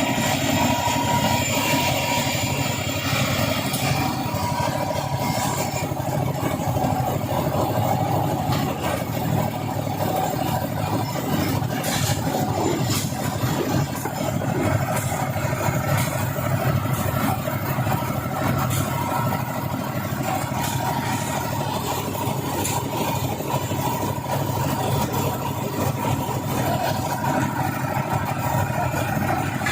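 An engine running steadily, with a few light knocks.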